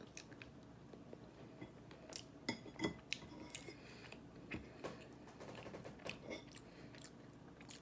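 A person chewing a mouthful of salad, with scattered light clicks of a fork against a dish.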